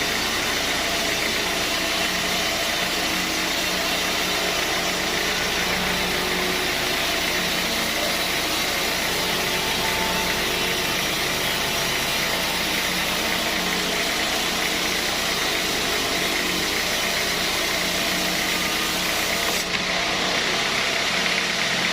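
Sawmill machinery running steadily: a continuous engine-like hum with a hiss over it.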